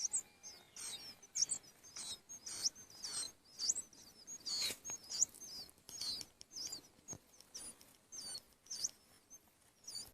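Nestling birds begging for food, a run of short, high chirps about two a second.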